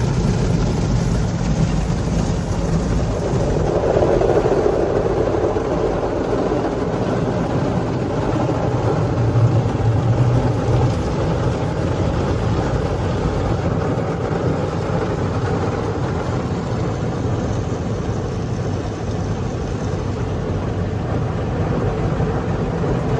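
Car driving, with a steady run of engine and road noise from inside the cabin.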